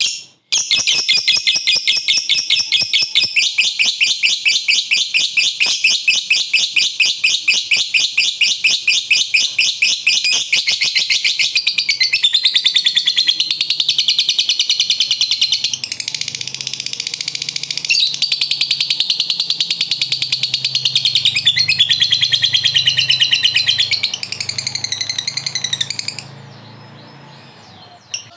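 Lovebird giving a long 'ngekek' chatter: a rapid, unbroken run of sharp, high chirps lasting over twenty seconds, stopping near the end.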